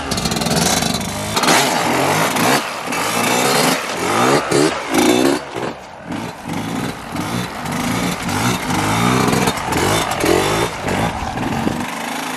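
Dirt bike engine revving up and easing off over and over, in short surges about once a second: the throttle being fed smoothly to hold a wheelie through a circle, without the clutch.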